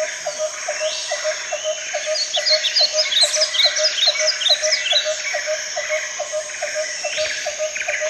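Tropical rainforest wildlife chorus: a low note repeated steadily about four times a second over continuous high insect buzzing, with a quick flurry of bird chirps in the middle.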